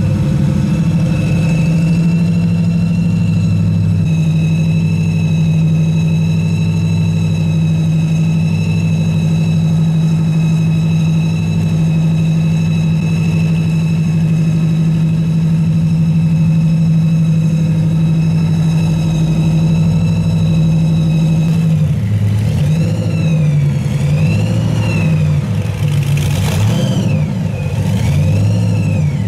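Hot-rod car engines at low speed: a steady idle for most of the stretch, then near the end an engine is revved again and again, its pitch rising and falling several times.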